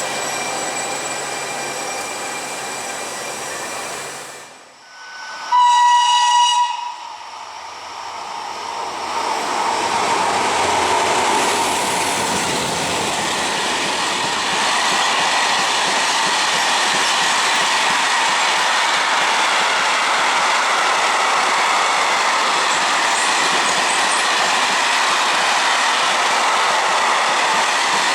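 Trains at a station: a steady running noise, then about five seconds in a loud train horn blast lasting about a second. Then the rushing noise of a train builds up and runs on steadily.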